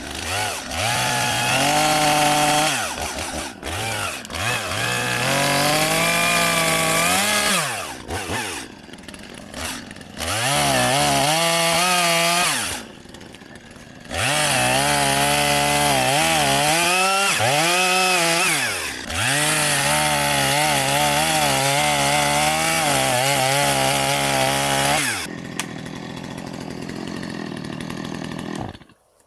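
Chainsaw cutting branches off a tree in several long bursts at high revs, its pitch wavering and surging under load and dropping back between cuts. Near the end it runs quieter for a few seconds, then stops.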